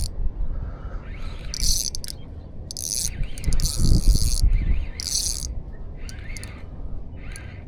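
A spinning reel's drag giving line in short, high, rapid ticking bursts, four or five times, as a hooked kingfish pulls against it. Low wind rumble on the microphone runs underneath, and faint chirps come near the end.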